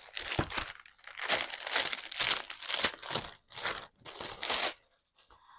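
Package wrapping crumpled and crinkled by hand, a dense run of rustling bursts that stops shortly before the end.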